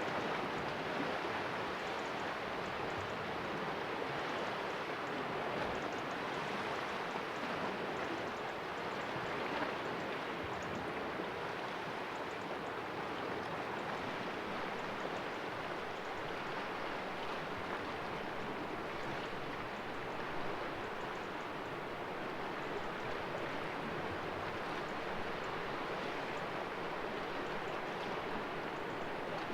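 Sea waves washing and splashing against rocks in a calm cove: a steady rush of water that gently swells and eases.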